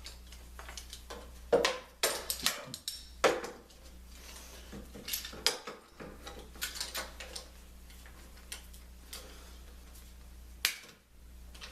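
Irregular knocks, clicks and light clatter of things being handled and set down, the sharpest about one and a half, two and three seconds in and again near the end, over a steady low hum.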